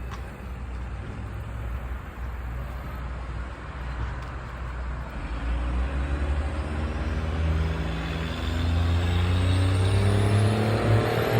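Motor vehicle traffic: a steady low road rumble, then a car engine drawing closer and growing louder over the second half.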